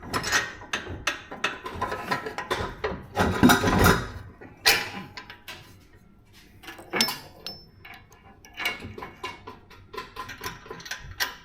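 Steel exhaust pipes clanking and scraping as they are worked into place and slipped together: a run of metal knocks, with louder scraping clatter near the start and again about three seconds in.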